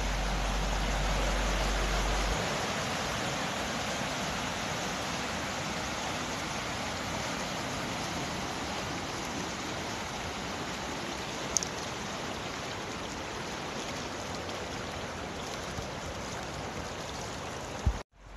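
Creek water rushing steadily, with a low rumble in the first couple of seconds and a brief high chirp about two-thirds of the way through.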